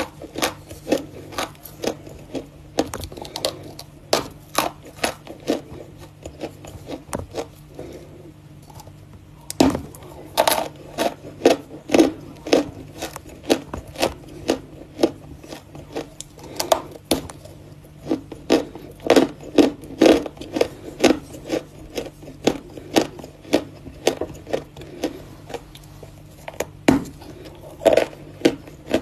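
Natural Volokonovka chalk being bitten and chewed: crisp cracks and crunches in irregular runs, several a second at times, with a short lull around eight to nine seconds in.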